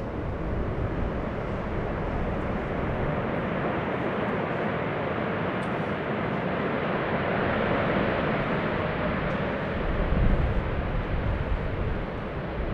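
Jet airliner engine noise passing by, building to a peak about eight seconds in, with low rumbling swells later on.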